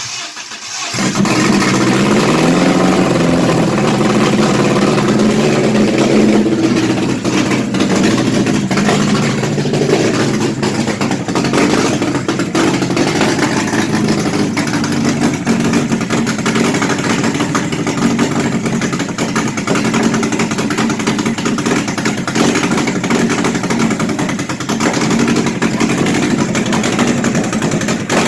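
Car engine revved up at the start, then held at raised revs and running steadily, so the ignition timing advance can be read as the revs rise.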